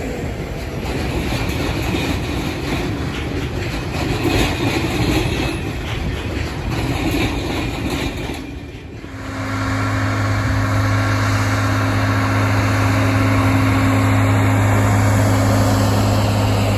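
Loaded timber train's wagons rolling past with a steady rumble and rattle of wheels on the track. About nine seconds in this gives way to the steady low drone of a SPENO rail grinding train's engines running.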